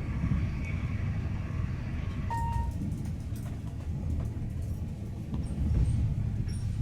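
Passenger train running, heard from inside the carriage: a steady low rumble with faint clicks, and a brief high beep about two seconds in.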